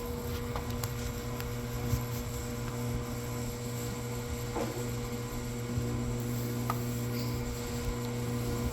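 A steady low hum over a rumble, with a few faint clicks.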